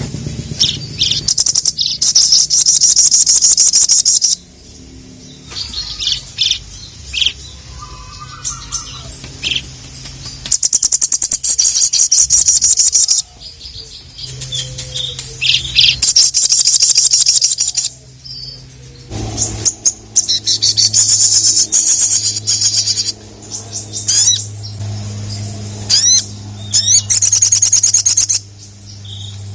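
Sogon (little spiderhunter) singing hard, calling out to rivals: loud runs of rapid high-pitched notes, each about two seconds long, repeated about five times with shorter calls between. A steady low hum runs beneath.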